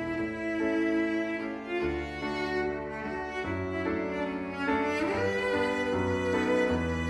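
Slow background music of bowed strings, violin and cello, with sustained notes and a low bass line changing every couple of seconds.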